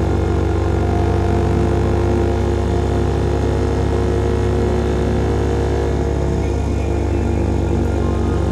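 CFMOTO Papio SS motorcycle's single-cylinder engine running through a KO Lightning slip-on exhaust, holding steady revs while riding.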